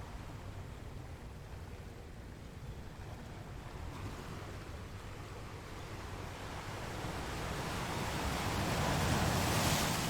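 Ocean waves breaking on a shore: a low wash that builds into a louder breaking wave near the end, then starts to recede.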